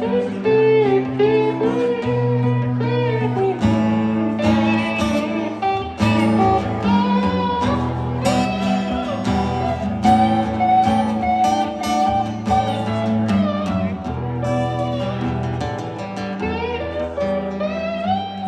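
Live rock trio playing an instrumental break: electric guitar lead lines with bent, sustained notes over bass and drums with cymbal hits.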